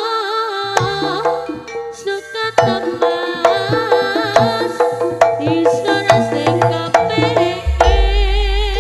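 Live East Javanese jaranan gamelan music: kendang hand drums beating a busy rhythm under a wavering, ornamented melody line. A deep gong stroke booms in near the end.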